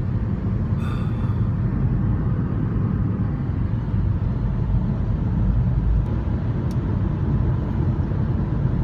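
Car driving on snowy roads, heard from inside the cabin: a steady low rumble of engine and tyre noise. A brief high tone about a second in, and two faint clicks near the end.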